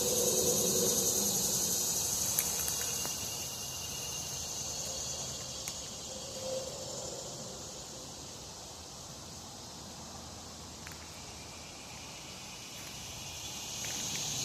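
Insects droning in a steady, high-pitched chorus that fades somewhat in the middle and grows louder again near the end, with a few faint clicks.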